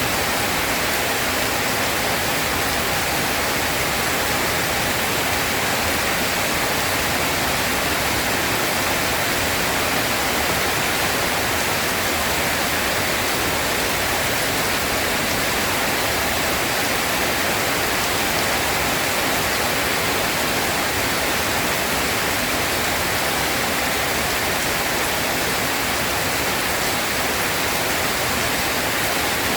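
Rain falling steadily, an even hiss that neither rises nor breaks.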